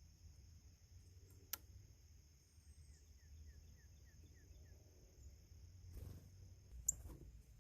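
Faint bird call: a quick series of about seven short, falling chirps, with two sharp clicks, one before the chirps and one near the end.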